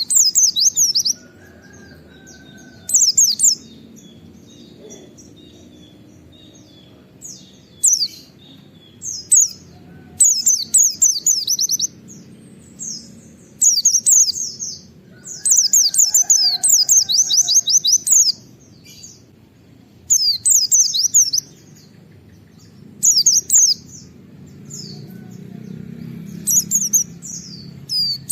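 A white-eye (pleci) singing its rapid 'wit wit' song: repeated short phrases of quick, high, falling whistled notes with pauses between them.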